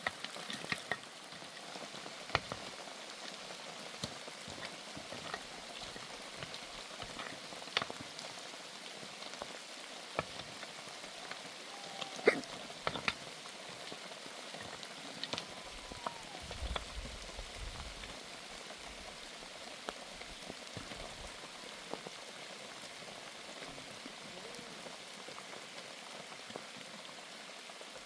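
Steady rain, with single drops striking nearby surfaces as scattered sharp ticks; the loudest hit comes about twelve seconds in.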